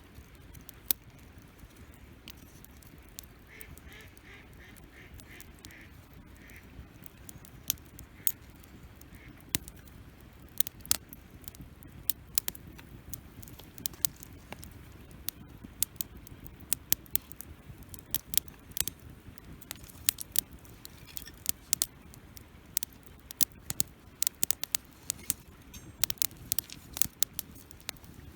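Wood campfire crackling, with sharp irregular pops that come much more often from about ten seconds in. Early on, a short run of about eight quick, even, higher-pitched pulses sounds over it.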